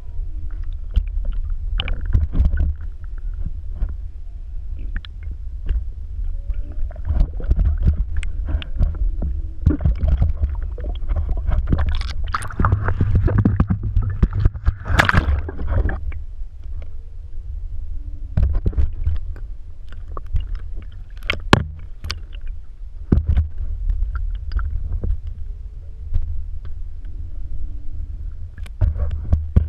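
Water slapping and splashing around a kayak, with irregular knocks and splashes over a steady low rumble, busiest about halfway through.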